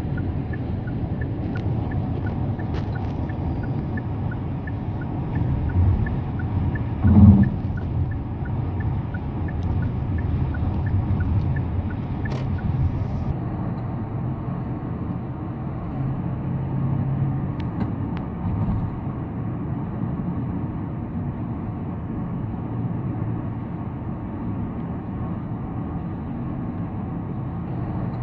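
Car on the road, heard from the cabin: steady low road and tyre rumble. A light, regular tick comes about twice a second through roughly the first twelve seconds, and a single brief thump sounds about seven seconds in.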